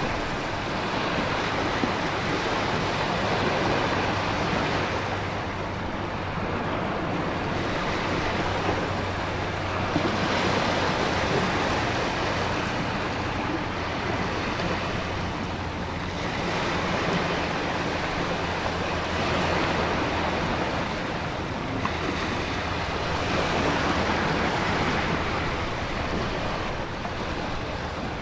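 Storm sea ambience: heavy surf surging and breaking in slow swells every few seconds over a steady rush of wind and rain.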